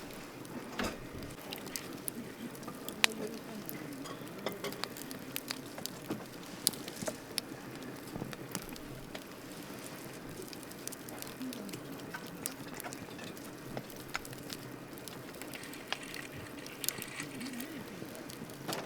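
Wood campfire crackling: irregular sharp pops and snaps over a low steady hiss, with one louder pop about three seconds in.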